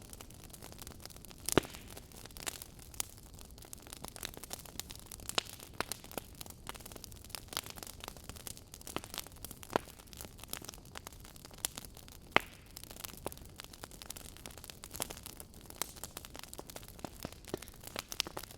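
Fire crackling: a low steady hiss with frequent irregular sharp pops and snaps, the two loudest about one and a half seconds in and about twelve seconds in.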